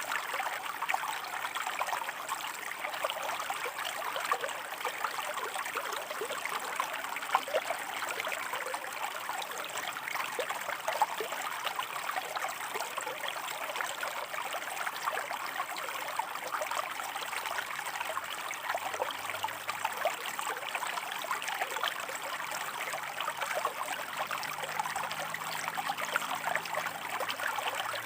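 Shallow river water running over rocks, a steady babble of many small trickles and splashes.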